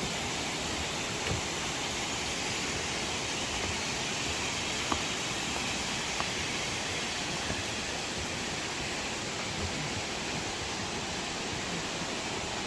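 Steady rush of a waterfall: an even, unbroken hiss of falling water, with a couple of faint brief knocks about five and six seconds in.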